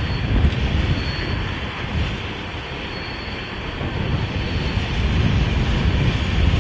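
Freight train of empty oil tank cars rolling by on the climb, under heavy wind buffeting on the microphone. A thin high-pitched tone comes and goes over it.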